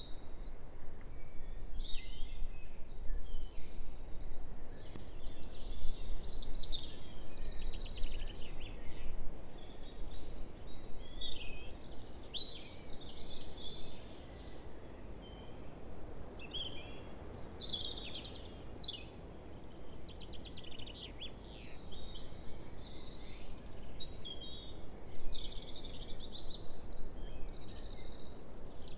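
Songbirds singing and calling in a continuous chorus of short, varied chirps and trills, with a low rumble of wind on the microphone underneath.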